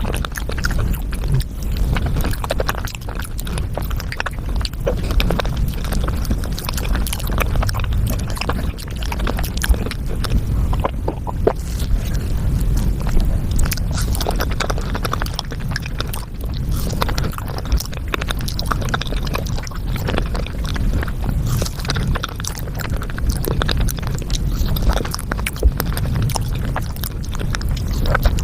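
Close-miked mukbang eating sounds sped up five times: chewing, biting and wet squishing squeezed into a fast, dense stream of clicks and smacks over a low rumble.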